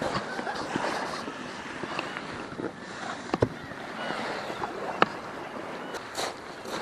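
Water splashing and slapping around a small inflatable boat, with scattered light clicks and two sharp knocks about three and a half and five seconds in; no outboard motor is running.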